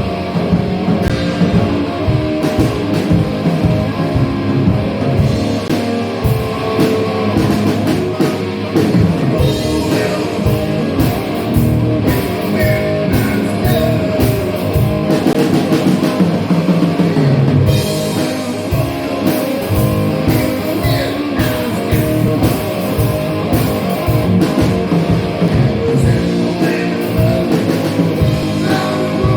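Blues-rock punk song played loud on electric guitar and drum kit, with the drums pounding steadily under the guitar.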